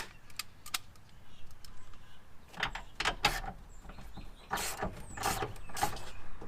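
A few light clicks, then six heavier clunks in two groups of three, like metal parts and panels being handled.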